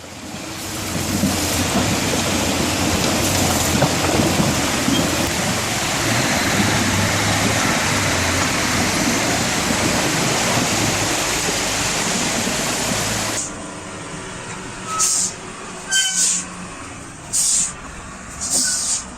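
A heavy diesel timber vehicle's engine runs steadily under a loud rushing noise. About thirteen seconds in, the sound drops to a quieter engine with four short hisses, roughly one a second.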